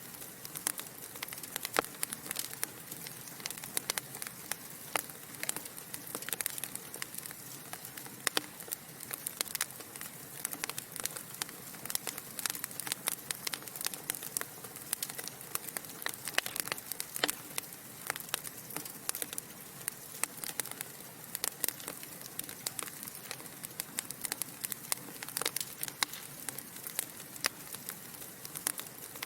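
Log fire crackling: many irregular sharp pops and snaps from burning wood over a soft steady hiss.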